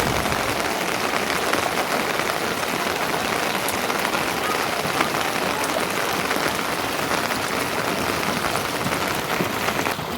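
Steady rain falling, an even patter of many drops.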